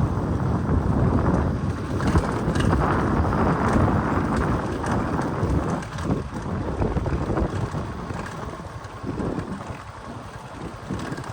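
Wind buffeting the microphone of someone riding along a road, over the rumble of the vehicle; it eases off in the last few seconds.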